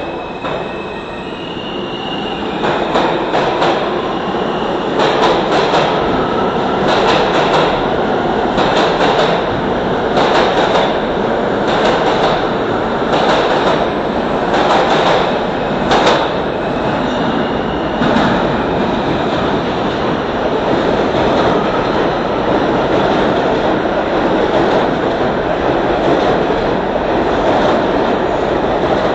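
R160 New York subway train running at speed in the tunnel, heard from inside the car: a steady rumble of wheels on rail that builds over the first few seconds. Through the first half a run of clicks comes from the wheels passing over rail joints and switches, with a brief high tone near the start.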